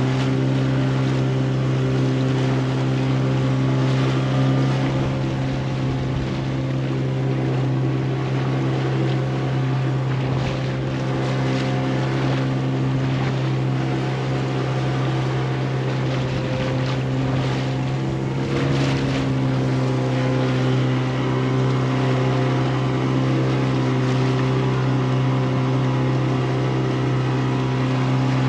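Motorboat engine running at a steady speed, an even drone that holds one pitch throughout.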